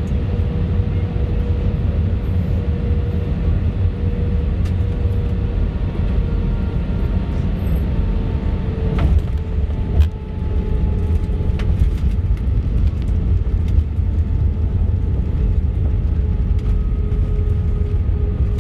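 Airbus A319 jet engines: a steady low rumble with a faint, steady whine above it and a few sharp clicks, the loudest about halfway through.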